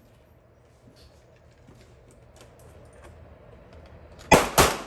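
Handgun fired twice in quick succession, two sharp shots about a third of a second apart near the end, over a faint steady range background with scattered small ticks.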